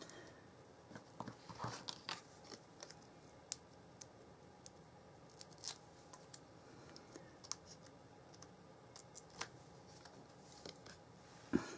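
Faint, irregular clicks, taps and rustles of paper card and small craft pieces being handled on a tabletop, with a louder knock near the end.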